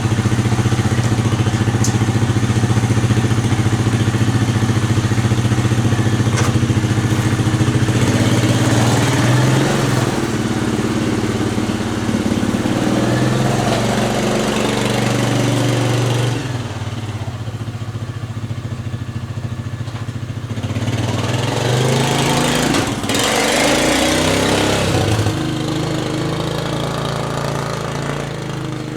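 Suzuki Vinson 500 ATV's single-cylinder four-stroke engine running while the quad is ridden. The engine note rises and falls with the throttle and goes quieter for a few seconds about two-thirds of the way through. The engine has just been rebuilt and is still breaking in.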